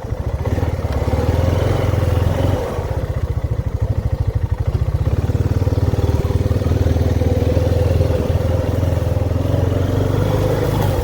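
Honda ATV engine running steadily as the four-wheeler is ridden, with a fast low pulsing and a brief easing off about two and a half seconds in.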